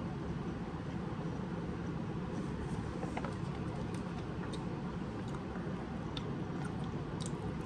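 Steady low background hum with quiet chewing, and a few small clicks from a plastic water bottle being handled and drunk from in the second half.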